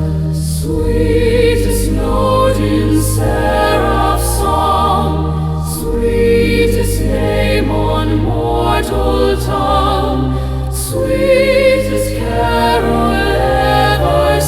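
Choir singing a slow hymn in long held notes with vibrato, over sustained low accompaniment; no words come through clearly.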